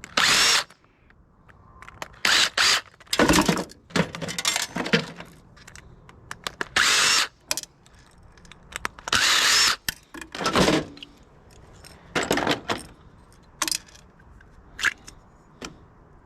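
Power drill running in short bursts of about half a second to a second, about eight times, with a brief rising whine as it spins up: screws being driven out. A few light metal clicks follow near the end.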